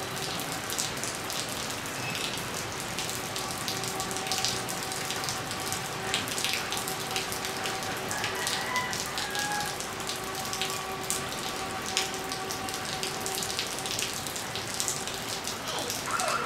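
Rain falling on a flooded concrete rooftop: a steady patter with many sharp separate drop ticks and splashes into the puddles.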